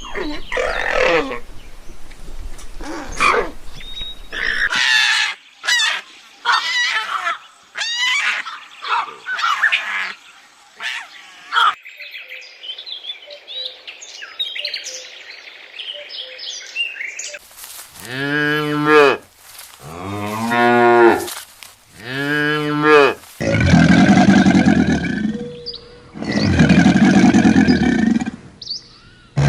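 Cattle mooing: three short calls in quick succession, then two long, loud moos, in the second half. Before that comes a run of quick, high, short chirping calls from other animals.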